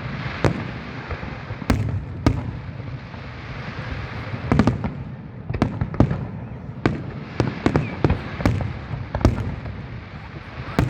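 Fireworks going off: a fast, irregular run of sharp bangs over a continuous crackle and rumble.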